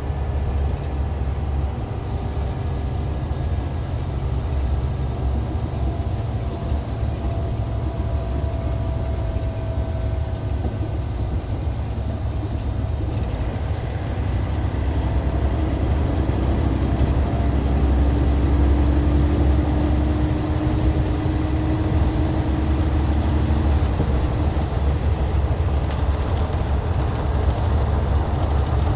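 Hyundai D6CC Powertec 380 straight-six diesel engine of a Hyundai Universe coach running as the bus drives, a steady low drone. Over the second half the engine note rises slowly in pitch and gets a little louder.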